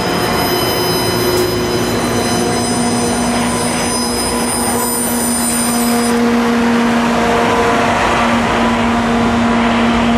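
Loram rail-grinding train rolling past close by: steady rumble of wheels on rail and diesel power units running. A steady high-pitched whine rides over it for about the first six seconds, then stops abruptly.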